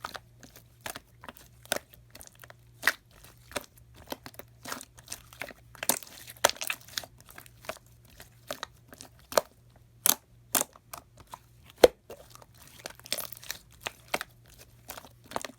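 Slime being squeezed, pressed and stretched by hand, giving many crisp clicking and crackling pops at an irregular pace.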